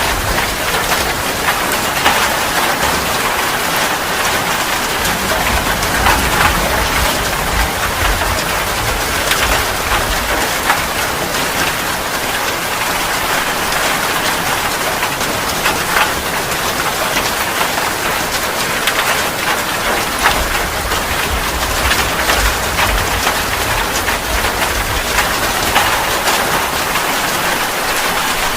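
Steady heavy rain pattering on a surface, with many individual drops splashing. A low rumble comes and goes underneath, at the start and again in the last third.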